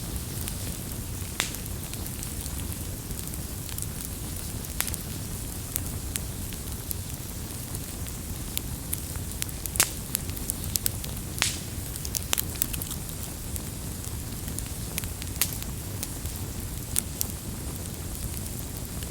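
Campfire crackling: irregular sharp pops and snaps of burning wood over a steady low rush of flame, with the loudest pop about ten seconds in.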